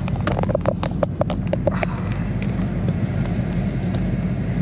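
Steady low rumble of a vehicle, with a quick run of about ten light clicks in the first two seconds.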